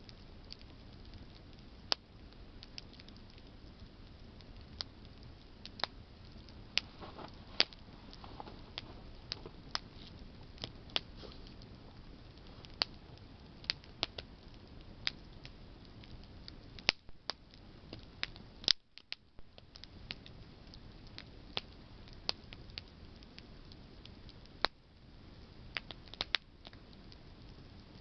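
Campfire of burning branches crackling, with sharp irregular pops and snaps over a low steady hiss.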